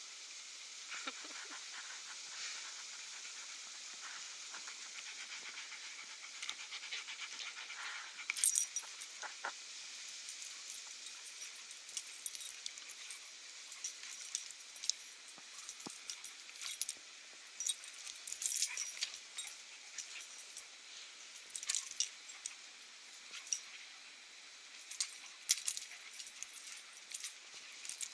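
Dogs play-fighting: scuffling, with many scattered sharp clicks and rattles over a steady hiss, and a few louder bursts of activity.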